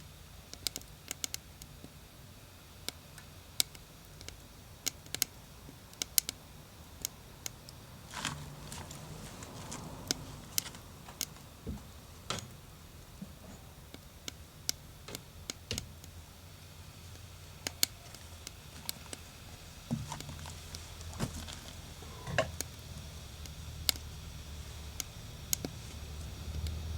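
Wood fire crackling, with sharp, irregular pops and snaps over a low, steady rumble.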